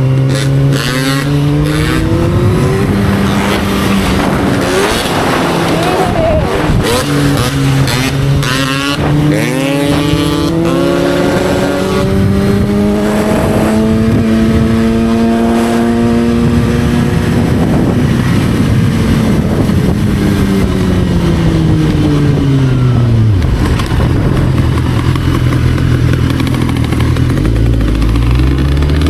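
Motorcycle engine under way, its pitch climbing as it accelerates and falling as it slows several times, settling to a low steady idle near the end before it revs up again.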